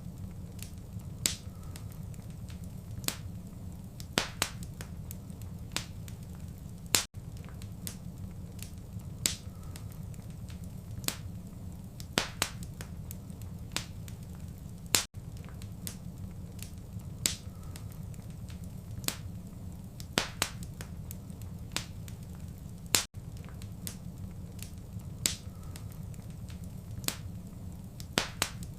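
Wood fire crackling in a fireplace: irregular sharp pops and snaps, roughly one a second, over a steady low rumble of the flames.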